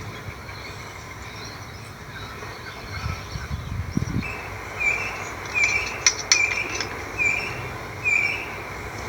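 A bird repeating a short, arching chirp about six times, roughly once a second, starting about halfway through, over a steady outdoor hiss. A few low thumps come a few seconds in.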